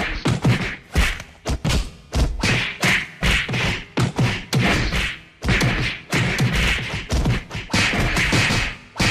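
A rapid run of thumps and whacks, several hits a second, each with a short noisy tail.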